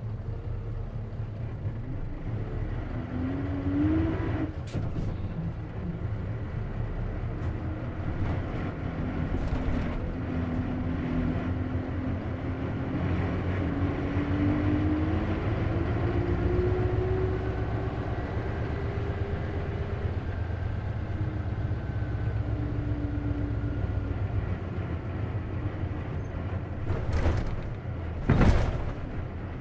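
Isuzu KC-LV380N city bus with manual gearbox, heard from inside while under way: a low engine drone with a whine that rises and falls, the kind of abnormal noise this bus makes, which the owner thinks may be a symptom that can occur with manual-transmission buses. Two short, loud bursts of noise near the end.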